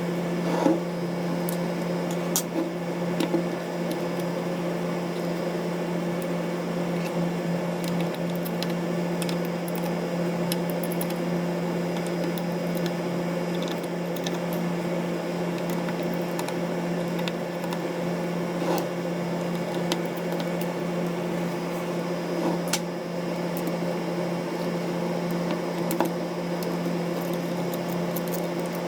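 Steady low electrical or fan-like hum, with a few light clicks and taps of small tools on camera parts.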